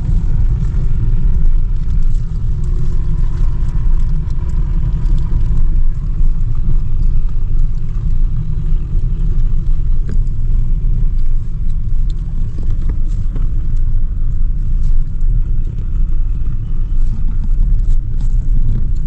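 Steady, loud low rumble of a vehicle on the move.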